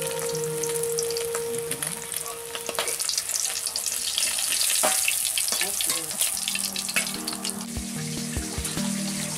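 Pieces of rohu fish sizzling and crackling as they fry in hot oil in a steel kadai, with a metal spatula scraping against the pan as the pieces are lifted out.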